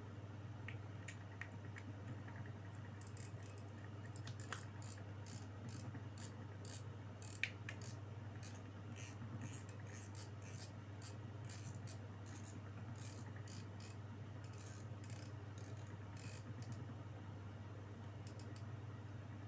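Hands handling an Okuma Azores Z40 spinning reel and its packaging: a run of short, irregular scratchy clicks and rustles, with one sharper click about seven seconds in, over a steady low hum.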